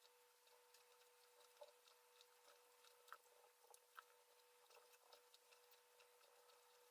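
Near silence: faint scattered clicks and ticks of thin enamelled copper wire being wound by hand onto a brushless motor's stator teeth, over a faint steady hum.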